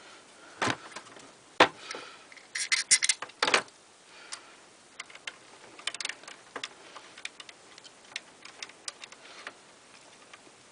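Small metal parts of a box fan motor clicking and knocking as a screw is fitted: a few sharp knocks and a quick cluster of clicks in the first few seconds, then a run of small irregular ticks as the screw is driven in.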